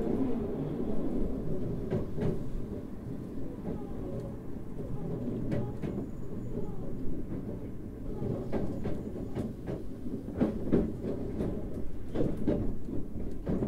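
Running noise heard inside a Toei 5300 series electric train car: a steady low rumble of wheels on rail. Scattered sharp clicks from the wheels crossing rail joints come more often in the second half.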